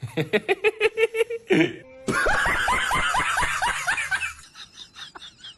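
Laughter in a rapid string of short pulses, then a louder run of quick cackles, each falling in pitch, from about two seconds in, tapering off near the end.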